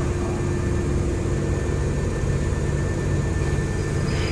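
Hankyu 7300 series electric train running steadily, heard from the driver's cab: an even rumble of wheels and running gear with a constant hum over it.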